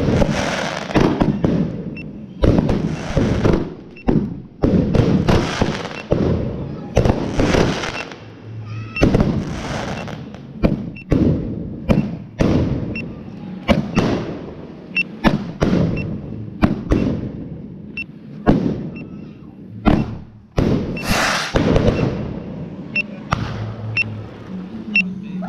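Fireworks going off in a long string of loud bangs, about one or two a second, many with a hissing, crackling tail.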